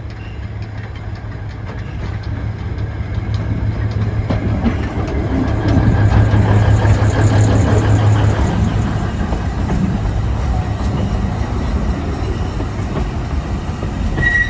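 Alishan Forest Railway train on the Zhushan line running, its diesel engine droning steadily under the noise of the wheels on the rails. The sound swells to its loudest about halfway through, and a high wheel squeal begins at the very end.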